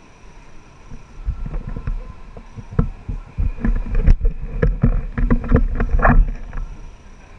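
Irregular thumps and knocks with a low rumble on the camera's microphone, starting about a second in, loud for about five seconds, then dying away.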